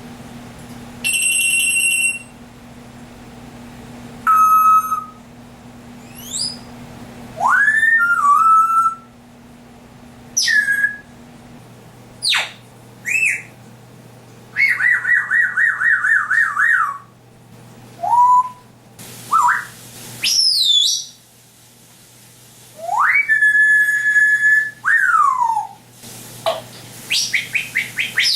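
African grey parrot whistling and mimicking electronic-style sound effects in a long series of separate calls. There are steady beep-like tones, sharply rising and falling whistled glides, and a fast warbling trill about halfway through.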